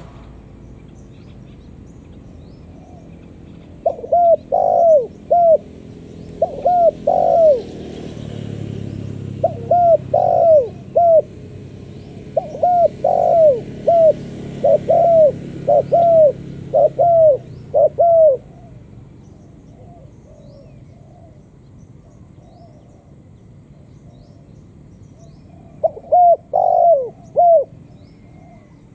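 Spotted dove cooing loudly in repeated phrases of short, arched coo notes, a long run of phrases followed by a pause and one more phrase near the end. A faint low hum sits under the middle phrases.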